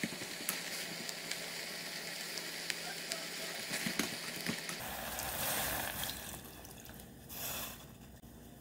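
Kimchi sizzling in a hot stainless steel pot while it is stirred with a wooden spoon, the spoon clicking against the pot. About five seconds in, water goes into the pot with a louder hiss, and the sound then settles lower as the stew sits in liquid.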